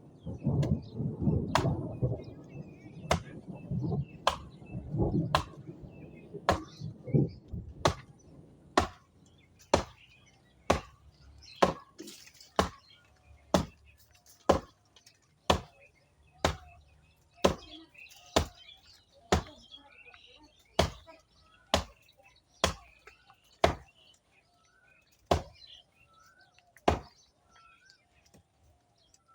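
Blade chopping into a moringa tree's branches: sharp single blows, about one a second, stopping a couple of seconds before the end. A rustling noise runs under the first several blows, and birds chirp in the background from about halfway.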